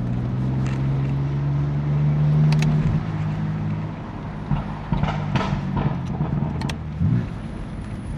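BMW F80 M3's twin-turbo inline-six running at a steady drone under light throttle. After about three seconds it drops off as the throttle is lifted, leaving quieter street and tyre noise with a few sharp clicks.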